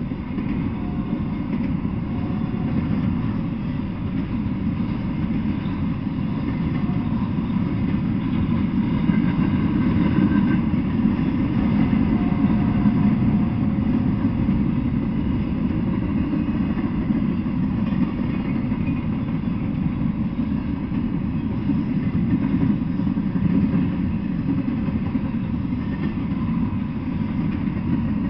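Freight train rolling past: a steady low rumble of steel wheels on the rails as empty double-stack well cars and then autorack cars go by, growing a little louder about a third of the way in.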